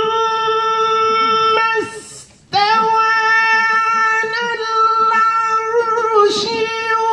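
Melodic Quran recitation: one voice holding a long, high, steady note drawn out on a vowel. It breaks off briefly for breath about two seconds in, then holds a second long note with slight ornamental wavers.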